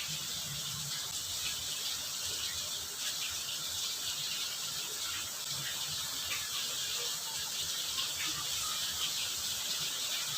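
Food sizzling in hot oil in a pan: a steady hiss with small scattered crackles.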